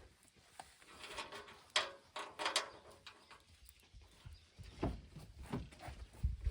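Hand tools working on a rusted steel truck tailgate: a few sharp metallic clicks, then duller low knocks and clunks in the last couple of seconds.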